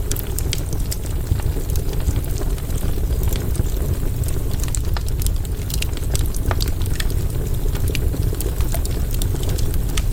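Campfire burning: a steady low rumble of flames under frequent, irregular sharp crackles and pops from the burning wood.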